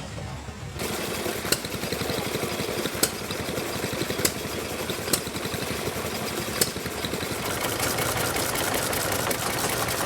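Antique engine running with a fast, steady clatter and a sharp click every second or so. It starts abruptly a little under a second in.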